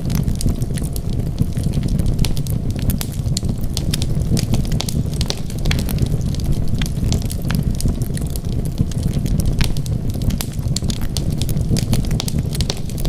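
Wood fire burning, with a steady low rumble and frequent sharp crackles and pops throughout.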